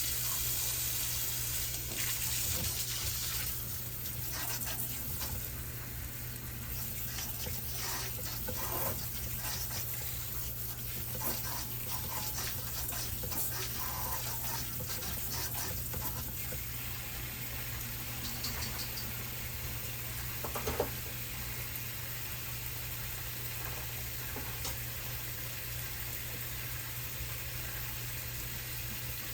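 Kitchen tap running steadily into a sink, turned on at the start, with occasional knocks and clatter of produce and dishes being handled.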